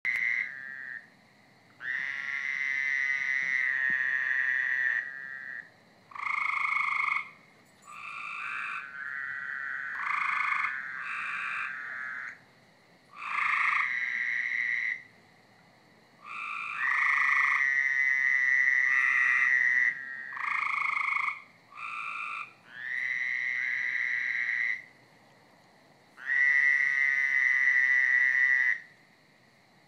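Chorus of frogs calling in the dark, with calls of about one to three seconds each. Some calls are higher and some lower, they sometimes overlap, and short pauses fall between them.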